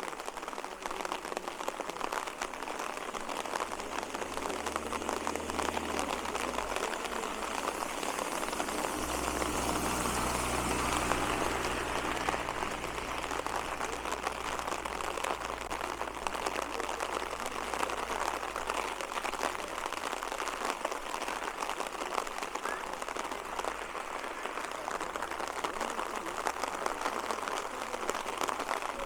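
Steady rain falling, a dense patter of drops that swells a little partway through, with a low rumble coming and going underneath.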